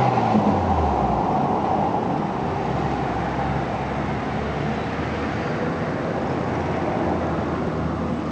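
Steady rumble of a Keikyu 600 series train and road traffic at a rail–road level crossing, loudest at the start and easing off over the first couple of seconds as the train moves away.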